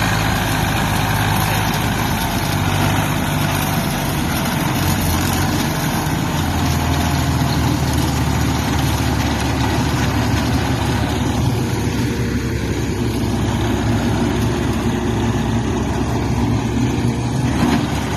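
Zetor 5245 tractor's diesel engine running steadily, its pitch dropping slightly about five seconds in, over a broad, even machinery noise.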